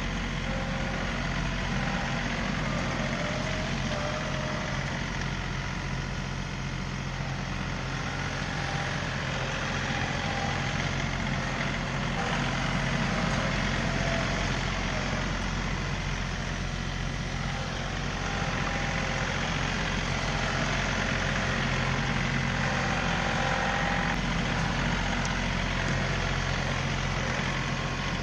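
John Deere 3038E compact tractor's diesel engine running steadily.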